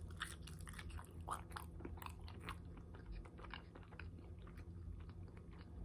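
Close-up chewing of a french fry: a bite, then many small irregular mouth clicks and soft crunches.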